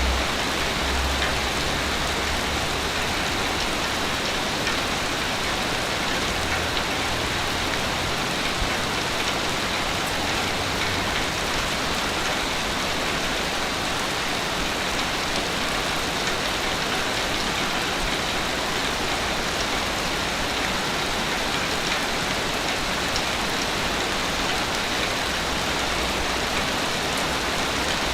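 Ocean surf on a beach: a steady, continuous rushing hiss of breaking waves, with a low rumble underneath in the first ten seconds or so and again near the end.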